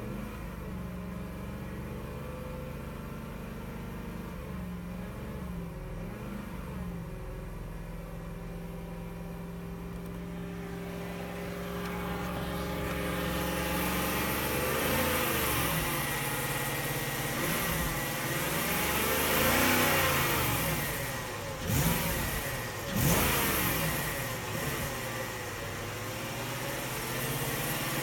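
BMW X5 E53 4.4-litre V8 engine idling steadily, then revved up and down repeatedly from about halfway through, with two short sharp blips before settling back toward idle. The engine makes a strange noise when revved that sounds like a loose timing chain or something loose inside, with a stored fault code for camshaft advanced on bank 2.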